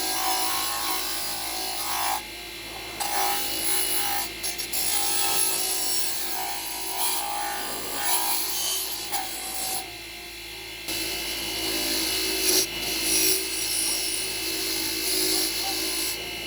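Hand scraping and rubbing strokes of an abrasive tool on a workpiece, as in cleaning or sanding, in short clips broken by brief pauses.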